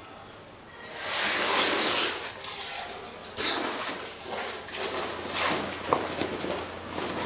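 Rustling and scuffling of clothes and a backpack as it is grabbed and searched, loudest about one to three seconds in, then in short bursts of handling noise.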